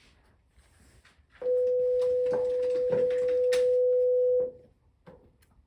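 A steady pure electronic tone at one pitch, held for about three seconds, starting about a second and a half in and cutting off suddenly.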